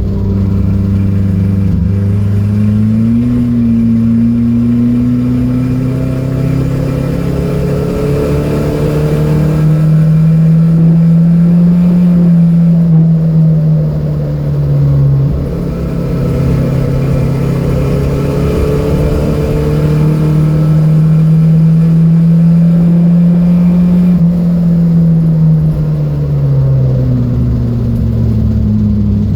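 Datsun B210's four-cylinder engine pulling hard on track. Its revs climb slowly for several seconds, then drop, and the same pattern comes twice.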